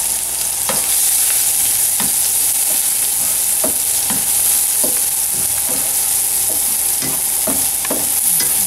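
Diced onion and garlic sizzling steadily in hot oil in a frying pan, stirred with a spatula that scrapes and knocks against the pan at irregular moments.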